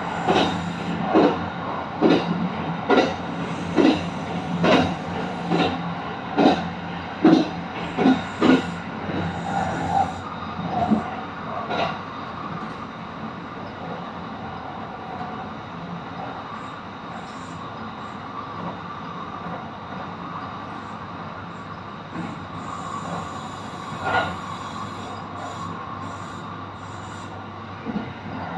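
Kintetsu Iseshima Liner limited express train running, heard from inside the carriage. For about the first ten seconds the wheels clack over rail joints roughly once a second, then it settles into a steady rumble with an occasional single click.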